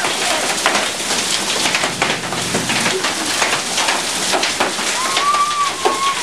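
A hailstorm with heavy rain: a steady downpour hiss, peppered with many sharp ticks and clacks of large hailstones striking the ground and surfaces.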